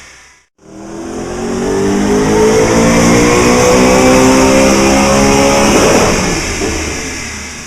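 Twin-turbo 4.2-litre 40-valve Audi V8 on E85 pulling hard on a dyno, rising in pitch as it revs. About six seconds in it hits the 8500 rpm rev limiter with a crackling burst, the limiter hit that makes it spit fire, then the sound dies away.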